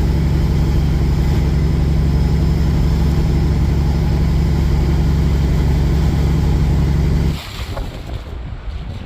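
Semi truck's diesel engine running at a steady, even speed, a loud low drone. About seven seconds in it cuts off abruptly, leaving a quieter, uneven noise that sounds like wind on the microphone.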